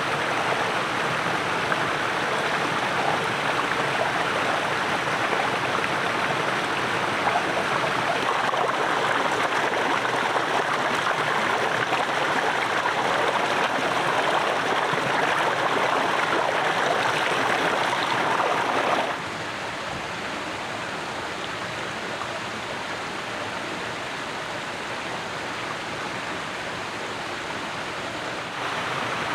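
A stream flowing steadily, an even rushing of water. About 19 s in it suddenly becomes quieter and duller, and near the end it steps back up.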